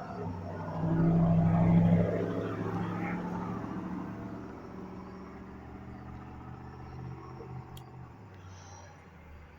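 A low rumble that swells about a second in, peaks, and slowly dies away over several seconds, over a steady low hum.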